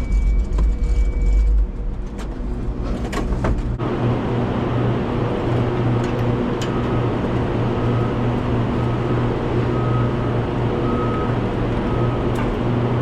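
A vehicle engine running steadily, with a deep rumble and a few knocks in the first few seconds, then an even engine hum from about four seconds in.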